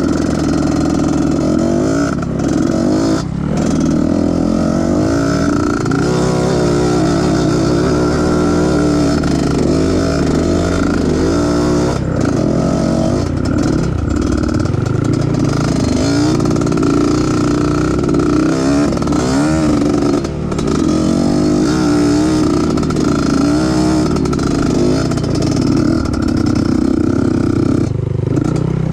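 Trail motorcycle engine running under load off-road, its pitch rising and falling again and again as the throttle is worked, with brief drops where it eases off.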